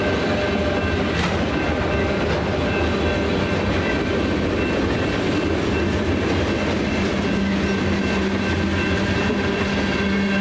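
Freight train passing through a grade crossing: a steady rumble and clatter of steel wheels rolling over the rails as autorack cars and then tank cars go by.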